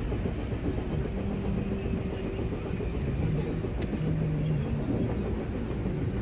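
Running noise heard inside a Tokyo Metro 6000 series train car in motion: a steady rumble with brief humming tones that shift in pitch.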